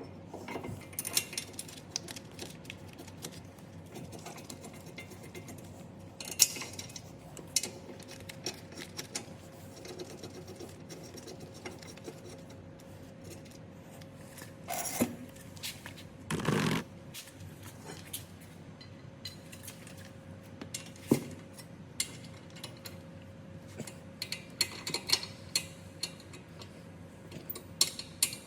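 Hand work on metal car parts with tools: scattered clinks, taps and rubbing, with one louder, longer knock or scrape about sixteen seconds in. A faint steady hum runs underneath.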